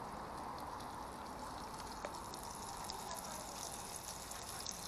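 Flour-dredged bluegill frying in hot oil in a cast-iron skillet: a steady sizzle with many small crackles.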